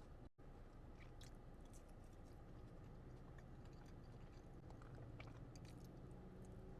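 Faint close-miked chewing and mouth sounds of someone eating, with scattered small wet clicks and smacks over a low steady hum; the sound drops out briefly just after the start.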